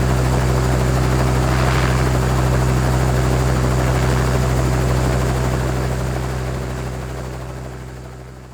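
Helicopter idling on the ground, a steady low rotor and engine drone with turbine hiss above, fading out over the last few seconds.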